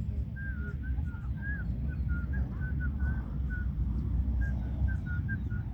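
Birds chirping: many short, repeated high notes, a few of them bending up and down in pitch, over a steady low rumble.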